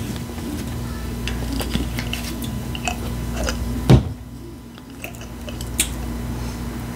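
Close-miked chewing and biting of a mouthful of taco salad topped with Flamin' Hot Doritos, with scattered small crackles. A single loud thump comes about four seconds in.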